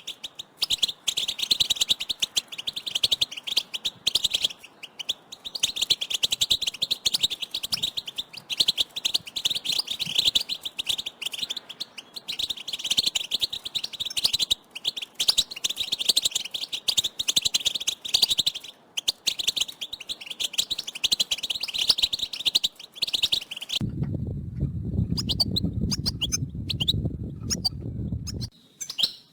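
A flock of European goldfinches giving rapid, dense twittering contact calls. Near the end the calls stop and a low buzzing sound runs for about five seconds.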